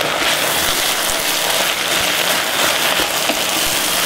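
Minced meat and diced vegetables sizzling steadily in a hot pot as a splash of red wine boils off, stirred with a wooden spoon: the wine is reducing during the browning.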